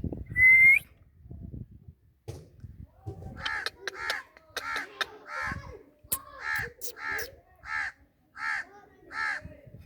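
Parrot giving one short, loud whistle that rises at the end, then after a pause a run of about ten short calls, evenly spaced at roughly three every two seconds.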